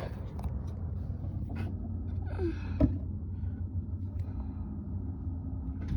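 Low steady rumble with scattered knocks and rustles of handling in a hen house's nesting spot, and two or three short, falling hen calls in the first half.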